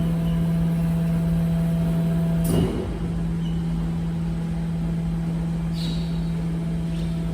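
Garbage truck running with a steady low hum, with a clack about two and a half seconds in and a short click near the end.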